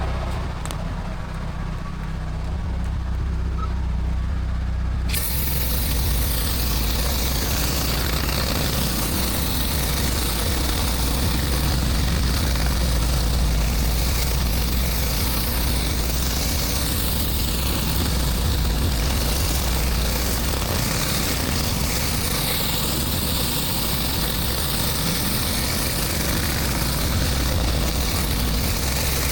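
Pressure-washing rig's engine running steadily with a low hum; about five seconds in, the hiss of high-pressure water spray starts abruptly and carries on.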